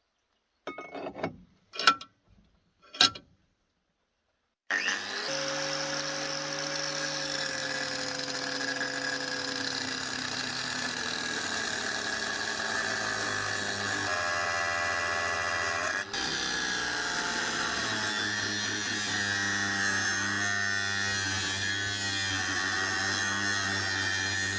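Three sharp knocks of metal or wood being handled, then, after a short pause, a power tool starts and runs steadily under load, its motor hum holding several tones while one slides slowly lower.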